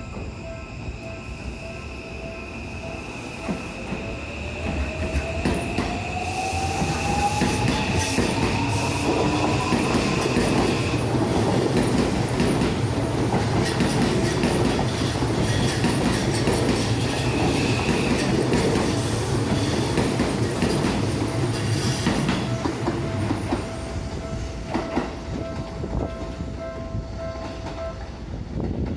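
Seibu 001 series Laview electric train pulling out: a whine rising steadily in pitch over several seconds as it accelerates, then loud wheel and track rolling noise as the cars pass, easing off near the end.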